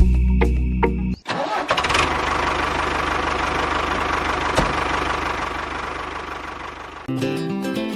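An engine starts and runs steadily for about six seconds, fading slightly toward the end, with music before and after it.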